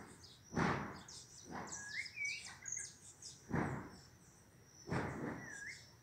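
A small black songbird calling: short high chirps and a couple of rising, curling whistles. Four brief, louder whooshes come and go among the calls.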